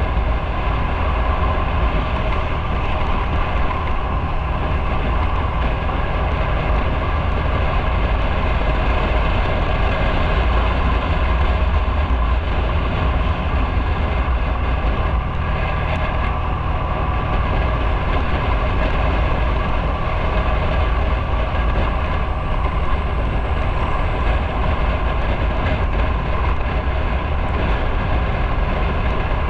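Motorcycle running steadily while being ridden, heard from on the bike: a constant engine drone over road and wind noise with no change in speed.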